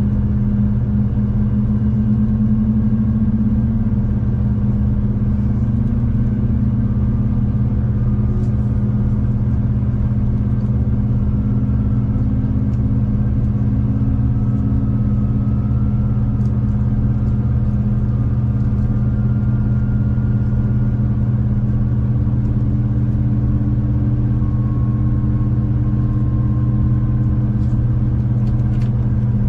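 V/Line passenger train heard from on board while running along the line: a steady low drone of engine and rolling noise, with one tone slowly creeping upward in pitch as it picks up speed, and a few faint clicks.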